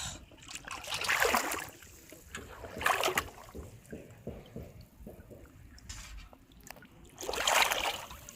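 Water splashing and sloshing in three short bursts, about a second in, about three seconds in and near the end.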